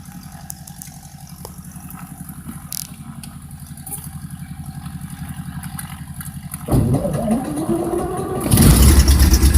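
Small airplane's piston engine being cranked by its starter with a fast, even pulsing, then catching about two-thirds of the way in with a rising tone and running up louder near the end: an engine start after the pilot's "clear prop" call.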